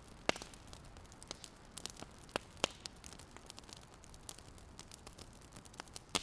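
A fire crackling: irregular sharp pops and snaps over a faint steady hiss.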